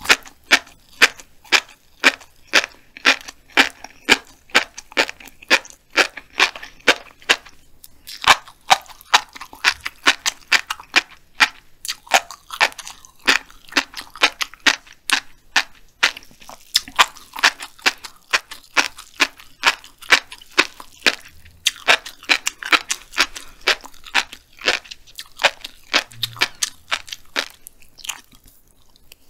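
Black flying fish roe popping and crunching between the teeth as a mouthful is chewed close to the microphone: a run of crisp pops, about three a second, with a few short breaks.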